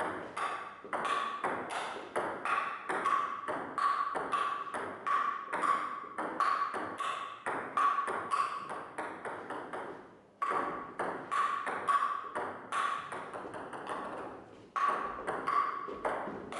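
Table tennis ball being struck back and forth in a fast drill: quick, even pings of the celluloid ball off paddle and table, several a second, with a brief pause about ten seconds in.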